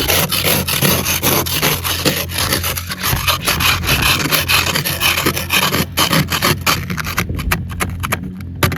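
Snow brush and ice scraper scraping packed snow and ice off a car, in quick repeated strokes.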